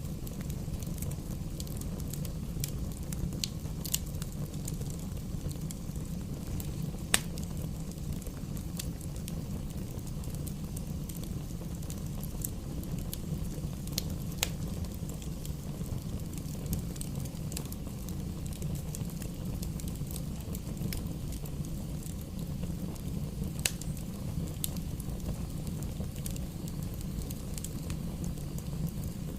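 Bonfire crackling, with scattered sharp pops over a steady low rumble; one pop about seven seconds in is the loudest.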